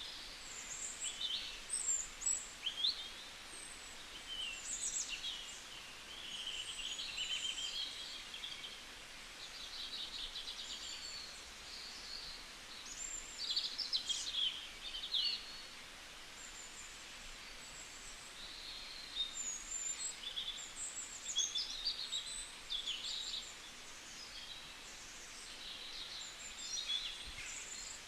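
Several small birds chirping and twittering, with short calls and trills coming in clusters over a steady background hiss.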